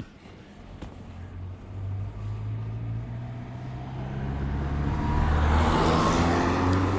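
A car approaching and driving past, its engine hum and tyre noise growing steadily louder to a peak about six seconds in, then starting to fade.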